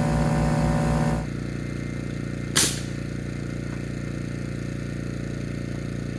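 A single sharp pneumatic nail gun shot about two and a half seconds in, driving a nail into rafter lumber. Under it a motor runs steadily with a regular pulse, dropping to a quieter steady hum about a second in.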